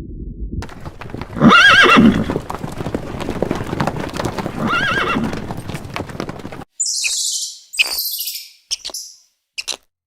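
A horse neighing twice, each a loud wavering whinny, over a background of scattered knocks. About two-thirds of the way through it cuts off sharply, and a few short high-pitched chirps follow.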